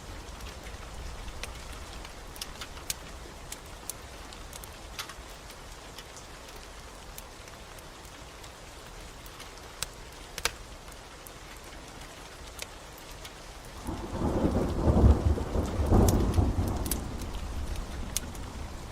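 Steady rain with scattered sharp crackles from a wood fire. About fourteen seconds in, a loud rumble of thunder swells for a few seconds and then fades back into the rain.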